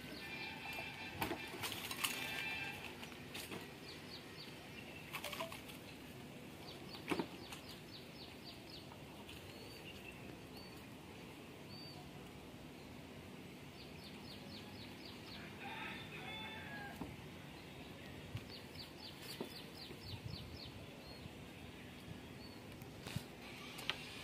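Birds calling in the background: several short runs of rapid high notes and a few single chirps, with a few sharp knocks.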